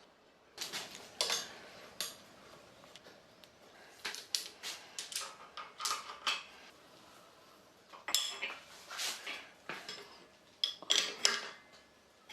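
Irregular clinks and clatters of hard objects being handled and knocked together, several sharp knocks in quick runs with short ringing.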